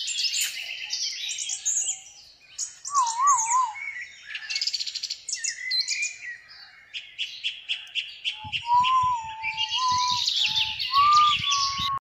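Birds chirping and tweeting in rapid, dense high calls, with a lower wavering whistle about three seconds in and again through the last few seconds.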